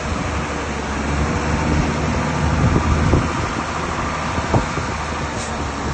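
Diesel engine of heavy earthmoving machinery running steadily, with a few short knocks or clanks.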